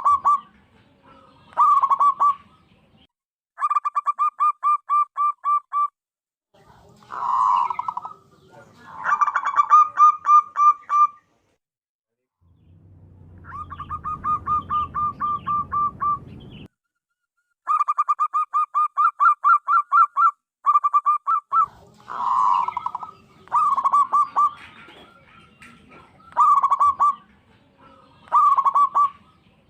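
Zebra dove cooing: repeated runs of rapid, evenly spaced staccato notes, each run one to three seconds long, with short pauses between them. One run in the middle has a low rumbling background noise under it.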